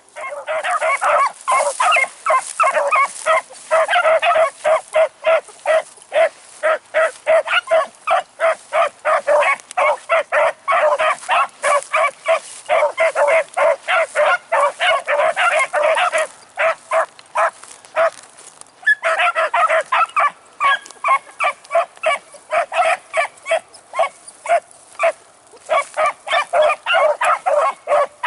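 A pack of beagles in full cry, many hounds barking and bawling rapidly over one another as they run a rabbit's trail. The cry breaks in suddenly, thins to scattered barks for a few seconds past the middle, then swells again.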